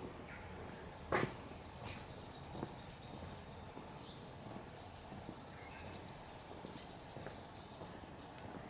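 A small bird singing two runs of rapid, high chirps over a quiet outdoor background hum. A single sharp knock about a second in is the loudest sound.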